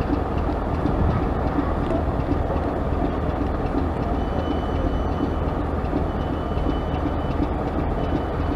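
Heritage railway train running, a steady continuous rumble, with a faint high tone coming and going in the second half.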